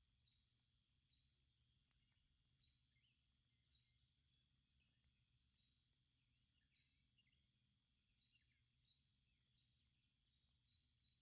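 Near silence, with faint, scattered short bird chirps and a steady high hum in the background.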